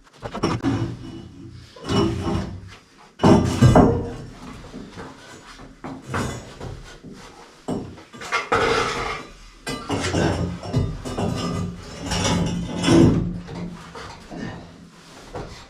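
Irregular knocking, clattering and scraping from a heavy shelf being handled and fitted into place, with the loudest knocks about three seconds in, in the middle and near the end.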